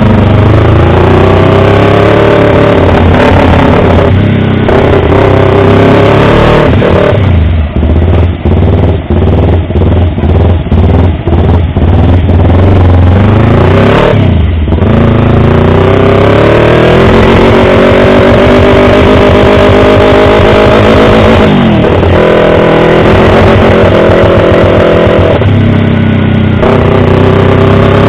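Yamaha R25 parallel-twin engine, very loud. Its pitch climbs and then drops back several times, with a choppy, pulsing stretch about a third of the way in.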